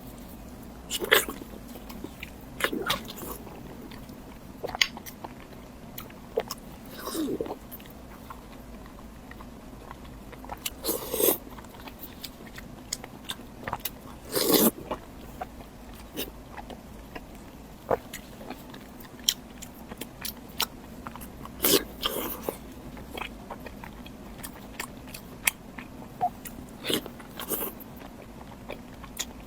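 Close-miked eating sounds of someone biting into and chewing big chunks of pork belly: irregular bites and chews, a few of them much louder than the rest.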